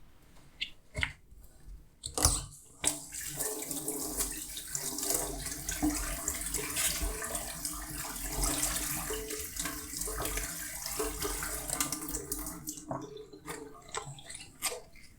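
Kitchen tap running into a sink during dishwashing, a steady rush of water that starts a couple of seconds in and dies away near the end. A few sharp knocks, dishes being handled, come just before the water starts.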